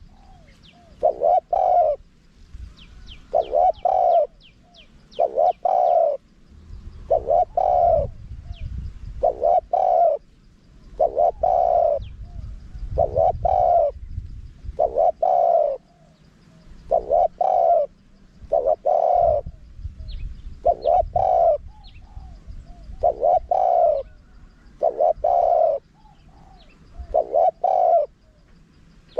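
Spotted dove cooing over and over, a phrase about every two seconds, each a short note and then a longer coo. This is the wild-type call used to lure doves. Faint high chirps of small birds and a low rumble come and go underneath.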